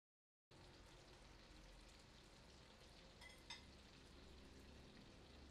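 Blocks of tofu frying in a pan of hot oil: a quiet, steady sizzle that starts about half a second in, with a couple of small pops a little past the middle.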